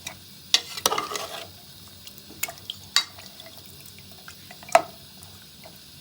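A few sharp clinks and knocks of a utensil against a cooking pot, with a short stretch of scraping and rustling about a second in, as ingredients are handled and stirred in the pot.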